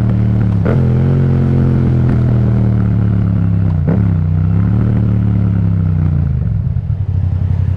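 Yamaha MT-07's parallel-twin engine running through an Akrapovic exhaust while riding. Its note dips sharply twice, then falls away near the end as the bike slows.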